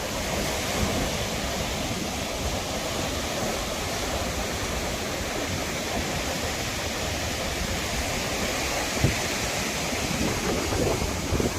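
Steady rushing noise of sea surf and wind at the shore, with a single short knock about nine seconds in.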